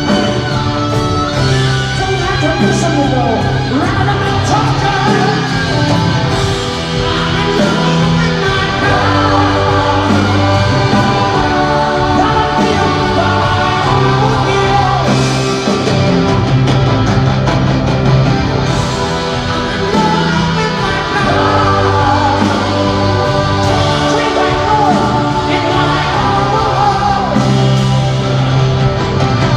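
Live rock band with a sung lead vocal over drums, bass and electric guitar, recorded in a large arena.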